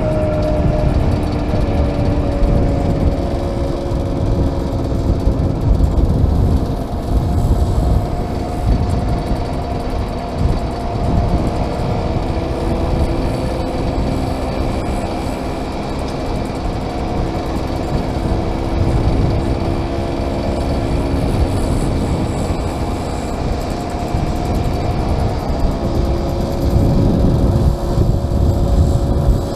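Small classic motorcycle engines running on the move, their pitch drifting slowly up and down as speed changes. Wind buffets the helmet-mounted microphone with a heavy, uneven rumble.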